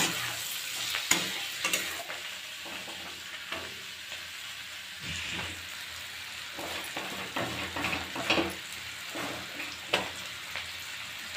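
Bitter gourd and onion sizzling in hot oil in a metal kadhai, with a spatula scraping and clacking against the pan as the bhujiya is stirred. The sizzle is steady, and the scrapes come every second or so, a little louder at the start.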